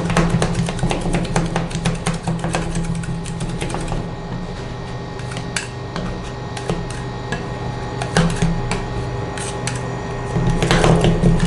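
Metal spatulas rapidly chopping and tapping on a metal plate, dense at first, sparser in the middle and quickening again near the end, over a steady low machine hum.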